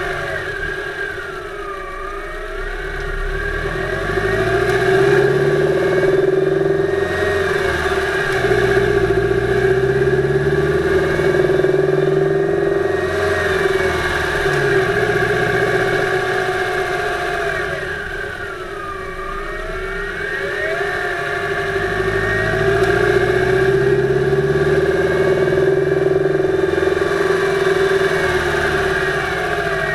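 2008 Subaru Impreza 2.5i flat-four engine running under way, heard close up from the engine bay, its revs climbing and falling back several times. The engine has a knock, wood-like rather than metallic, that the owner is trying to diagnose; it comes loudest around 2500 rpm under light to moderate load.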